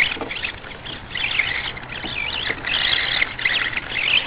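Losi Micro Desert Truck's small electric motor and gears whining high, the pitch wavering up and down with the throttle as the RC truck churns through mud.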